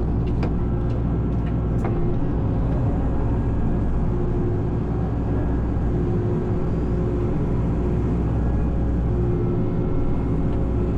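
Hitachi excavator's diesel engine running under load as the tree shear is worked, a steady low drone with a higher whine that comes and goes. A few sharp clicks in the first two seconds.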